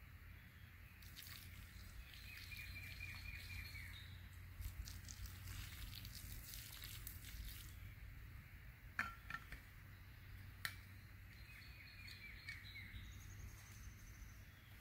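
Woodland ambience: a songbird repeats a short, falling trilled phrase twice, with a few other high bird calls over a steady low rumble. In the first half there is some light rustling, and past the middle come two sharp knocks, the loudest sounds, about a second and a half apart.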